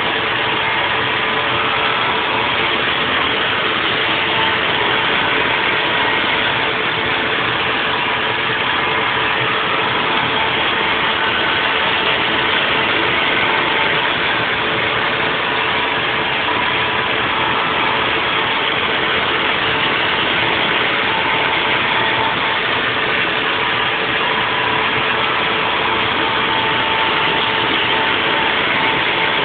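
Haas VF-4 CNC vertical milling machine running a 3D machining cycle on a block: steady, unbroken machine noise with a constant hum and a higher whine held throughout.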